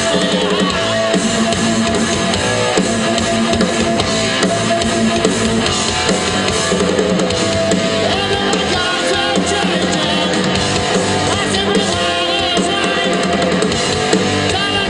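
Rock band playing live, with drum kit and electric guitar.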